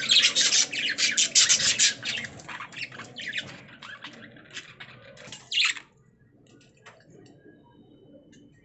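Budgerigars chirping and squawking in quick, dense chatter that stops about six seconds in, leaving only faint scattered chirps.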